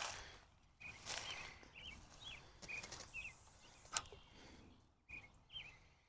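A small bird chirping over and over in short, quick calls, over bursts of rustling noise. Two sharp clicks, at the start and about four seconds in, are the loudest sounds.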